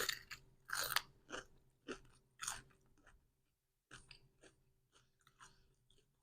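A person chewing a mouthful of crunchy food close to the microphone: a quick run of crisp crunches in the first few seconds that become sparser and fainter, dying away near the end.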